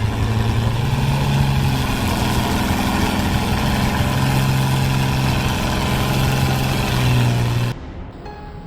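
Tractor engine running hard under load: a loud, steady drone that holds one pitch. It cuts off abruptly near the end.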